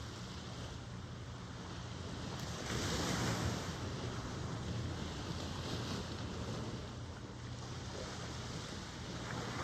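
Ocean surf: waves washing continuously, with one wave breaking louder about three seconds in.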